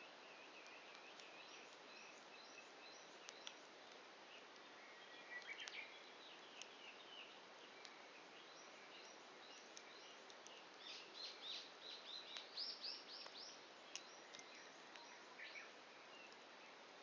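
Faint birdsong: scattered chirps, with a quick run of repeated chirps about eleven to thirteen seconds in, over a quiet steady hiss. A few small crackles from a campfire burning down toward embers.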